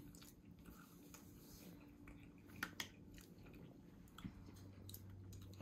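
Faint, quiet chewing of food, with a few soft clicks about halfway through, over a low steady hum.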